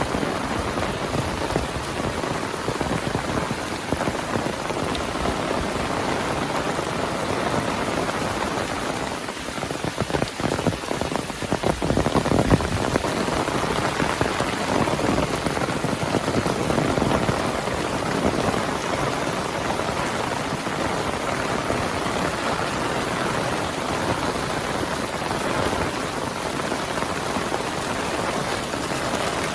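Heavy rain falling steadily on the ground and surfaces around, with a louder, rougher stretch about ten to thirteen seconds in.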